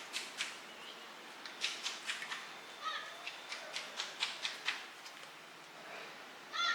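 Irregular light clicks and taps, as of small metal parts and hand tools being handled during an angle grinder repair. A short high animal call comes faintly about three seconds in and more strongly at the very end.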